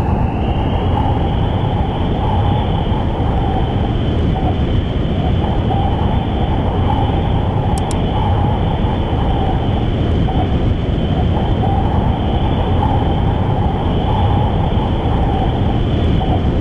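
A loud, steady mechanical drone with a constant high whine running over it; the whine steps up slightly in pitch about half a second in.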